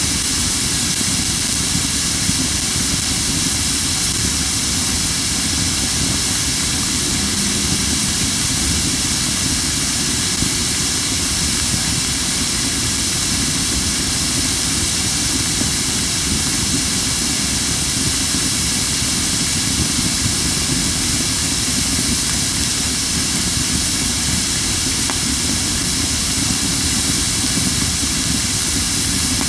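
Crape myrtle wood fire hissing steadily, with almost no crackling: the hiss of moisture steaming out of wood that was not fully dried.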